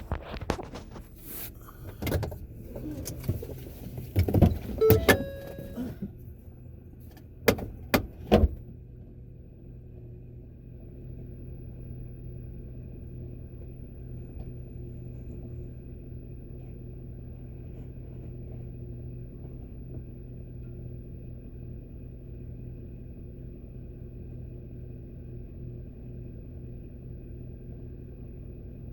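Clatter and knocks from the camera being handled and set down inside a vehicle, with two sharp thumps about eight seconds in. After that comes a steady low hum of the vehicle's engine idling, heard from inside the cab.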